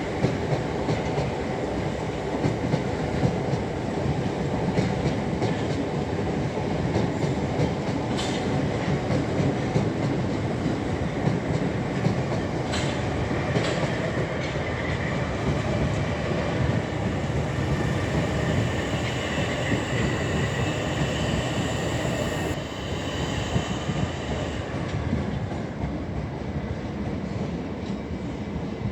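Electric passenger train running through the station: a steady rumble of wheels and motors with a few sharp clicks from the wheels over rail joints, and a thin whine in the middle that stops a little past the two-thirds mark.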